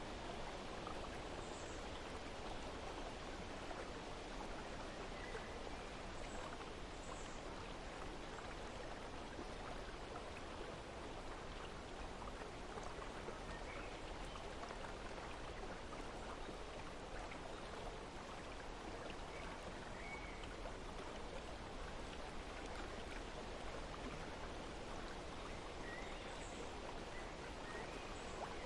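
Steady rush of running water, with faint bird chirps now and then.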